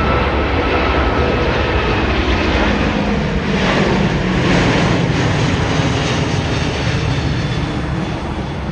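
Jet airliner passing close by, its engines running loud and steady with a faint whine, easing off near the end.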